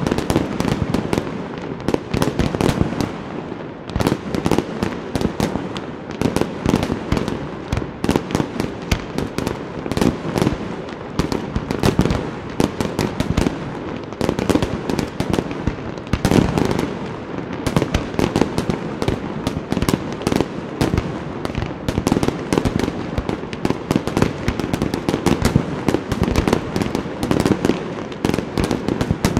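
Night fireworks display: a continuous barrage of firework bursts, many sharp reports a second with no let-up.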